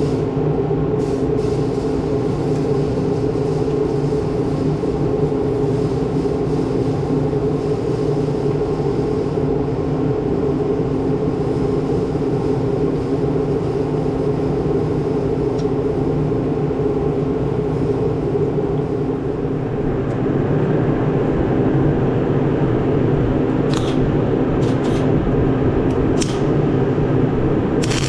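An engine running steadily, an even low drone that steps up slightly in level about two-thirds of the way through, with a few sharp clicks near the end.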